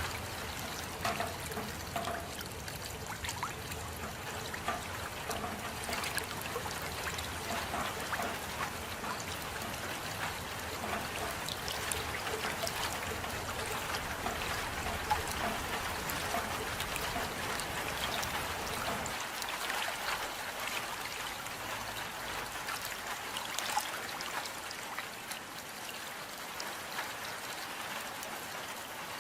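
Steady rain falling, an even hiss full of small drop ticks. A low rumble underneath drops away about two-thirds of the way through.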